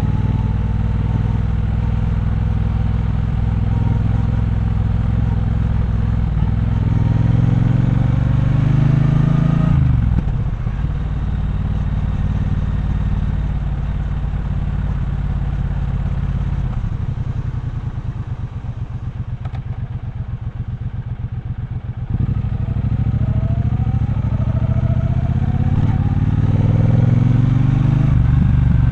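Triumph Bonneville Bobber's 1200 cc parallel-twin engine under way. It pulls up in pitch, then the throttle closes and it rolls on steadily. It drops to a slow, pulsing idle for a few seconds. Near the end it pulls away again, rising in pitch through the gears.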